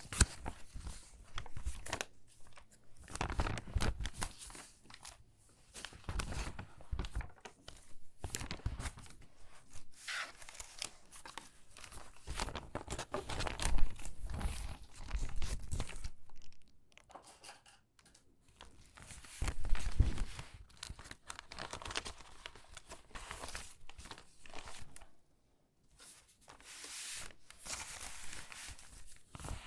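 Stiff, water-damaged magazine pages being handled and sorted, crinkling and rustling in irregular bursts with a few short pauses.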